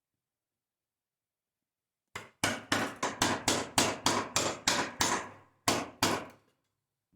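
Silence, then a quick, even series of about a dozen hammer blows on wood at roughly four a second, and two last blows after a short pause near the end.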